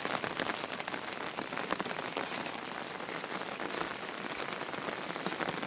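Heavy rain falling steadily, a dense patter of countless individual drops.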